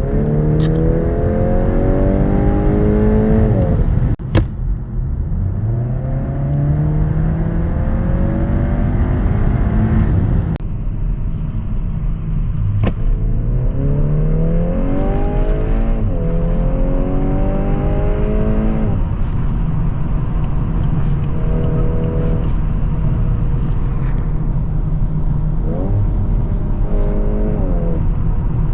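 VW Golf R Variant's turbocharged 2.0-litre four-cylinder accelerating hard through the gears: the engine note climbs steadily in pitch and drops back at each upshift, over a constant rumble of road noise. Shorter blips of throttle come near the end.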